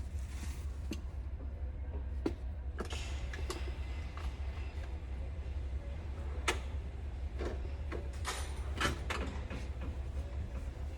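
A few scattered clicks and knocks over a steady low hum.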